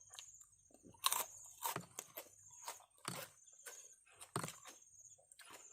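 Close-up eating of a spicy seafood salad with fresh shrimp: irregular crunching and chewing, loudest about a second in and again near three and four seconds. A steady high cricket chirr runs underneath.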